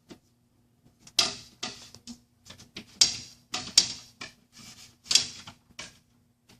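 Phillips screwdriver turning a tension screw on a pipe collar: a run of short, irregular metallic scrapes and clicks as the screw is tightened.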